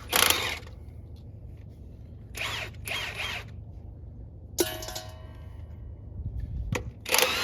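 Milwaukee half-inch-drive cordless impact wrench in short bursts, spinning nuts off the axle flange studs, with a couple of sharp metal clinks between bursts. Some studs are unscrewing along with their nuts.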